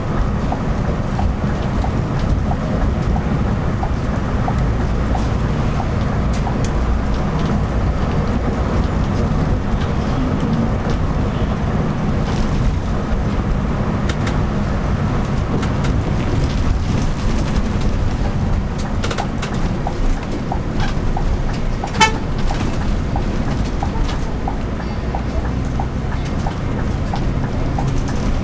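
Scania K360i coach driving at road speed, a steady low engine and road rumble with a light regular ticking over it. One brief sharp blip stands out about three-quarters of the way through.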